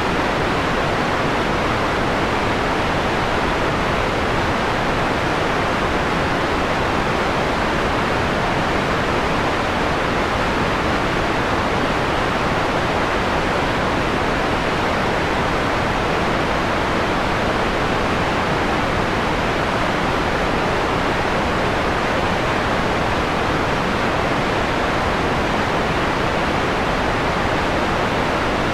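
Steady synthetic noise, a hiss partly filtered so its highs are rolled off, with most energy in the middle range and a softer top: white noise midway through dimming from bright to mellow.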